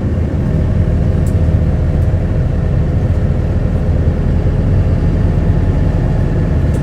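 Heard from inside the cabin of a moving Isuzu Erga (QKG-KV290N1) city bus: its diesel engine and road noise run steadily.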